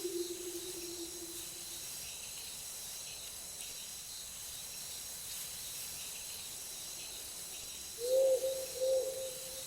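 Wolf howling over a steady night chorus of crickets and insects: one long howl sinks in pitch and fades about two seconds in, and another begins near the end with a wavering pitch.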